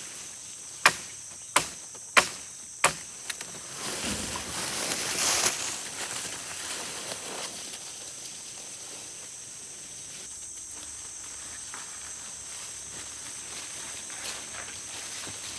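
Four sharp knocks in an even rhythm, about one every two-thirds of a second, followed by a brief rustling, over a steady high-pitched drone of forest insects.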